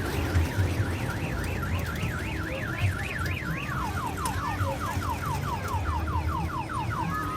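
Electronic siren cycling through alarm patterns: a fast up-and-down warble, then about halfway through a rapid series of falling whoops, switching to a steady tone near the end, over a steady low engine rumble.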